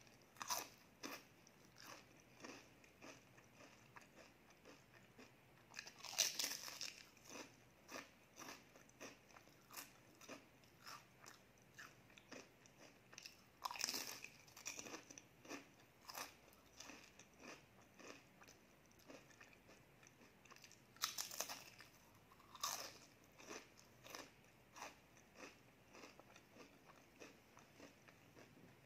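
Close-up eating sounds: a crisp baked pastry bitten and chewed with small crunches about twice a second, and louder crunching bites about 6, 14, 21 and 23 seconds in.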